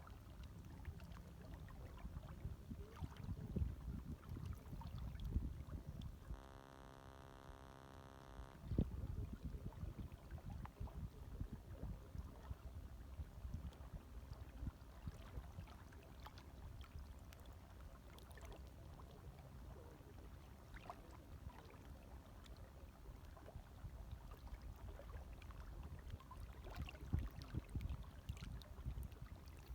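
Gentle waves lapping, a faint, low, uneven wash with small splashes. About six seconds in, it gives way for roughly two seconds to a steady electrical hum, then comes back abruptly.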